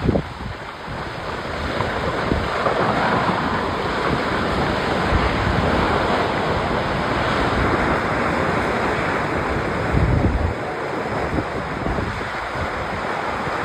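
Rockslide: rock and debris pouring down a mountainside with a steady, noisy rumble, and wind buffeting the microphone. A heavier low thump comes about ten seconds in.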